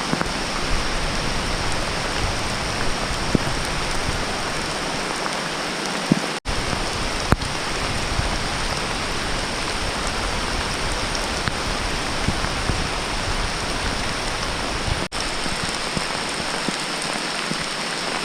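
Steady rain falling, an even hiss with a few louder single drops standing out. The sound cuts out for an instant twice, about six seconds in and again near fifteen seconds.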